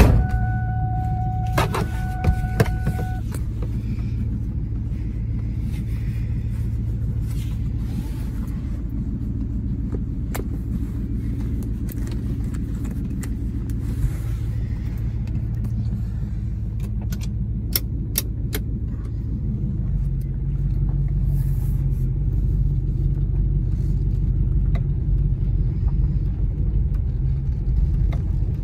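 Ford Mustang 4.6-litre V8 idling steadily, heard from inside the cabin. Its note grows louder about two-thirds of the way through. A steady high warning tone sounds for the first three seconds, and there are a few light clicks.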